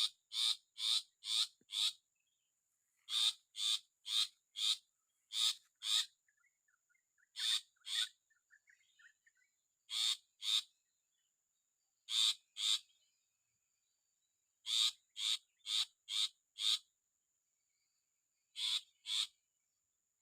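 Long-tailed shrike (cendet) parent giving harsh, rasping calls in quick groups of two to five, repeated every couple of seconds: scolding near its nest. A thin steady high-pitched whine runs underneath.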